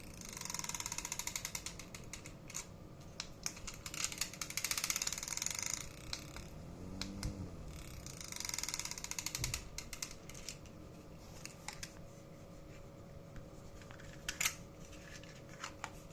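Small children's teddy-bear-shaped fan running, its motor giving a steady thin whine, with stretches of rapid rattling clicks that come and go a few times.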